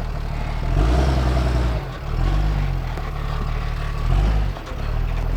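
Cummins diesel engine of a Ram 5500 off-road wrecker working over rough ground. The throttle surges and eases off three times, with light clattering.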